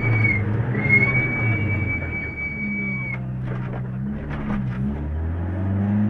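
Peugeot 206 rally car's engine running at fairly low, steady revs, heard from inside the stripped cabin. A high, steady whine sits over it for the first three seconds, then a few sharp ticks and knocks follow.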